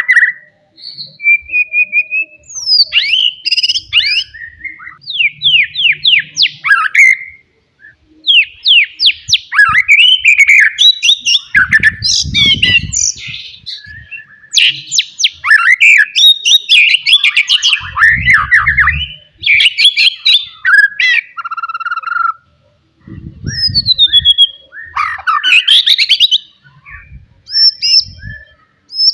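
White-rumped shama singing loudly: a continuous run of varied whistled phrases, rapid trills, sweeping notes and harsh chattering, broken by short pauses.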